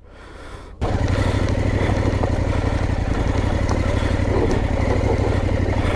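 Motorcycle engine running steadily; it comes in suddenly, loud, just under a second in.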